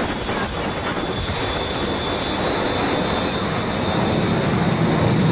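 Airplane engine noise, a steady rushing sound that grows louder near the end.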